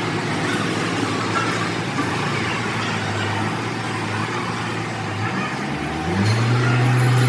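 An engine or machine runs steadily with a low hum over a wide noisy background. About six seconds in, its pitch rises a step and it gets louder.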